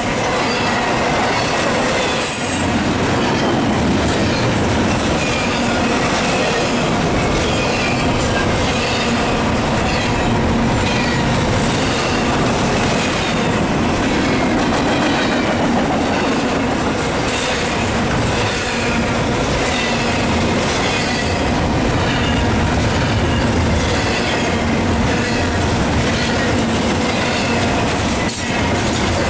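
Double-stack intermodal well cars of a freight train rolling past close by: a steady loud rumble of steel wheels on rail, with clicking over rail joints and faint high squeals from the wheels.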